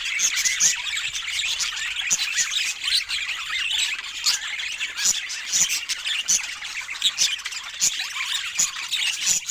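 Budgerigars chattering continuously: a dense warble of chirps, with frequent short, sharp calls.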